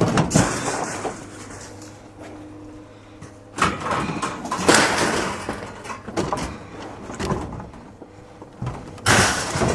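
Clanking, banging and scraping of metal, loudest just after the start, again around the middle and near the end, over a faint steady low hum.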